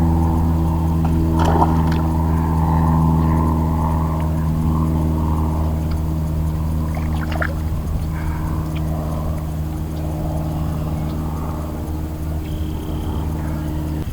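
A motorboat engine running steadily, slowly fading, then cutting off suddenly near the end. A few short splashes of water come over it.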